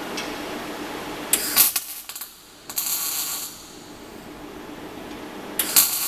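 Electric arc welding torch striking short tack welds: three brief bursts of crackling, hissing arc, about a second long each, with pauses between.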